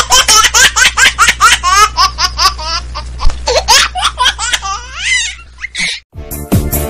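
High-pitched laughter, a rapid run of short laughs that stops about six seconds in. Electronic dance music with a steady beat starts near the end.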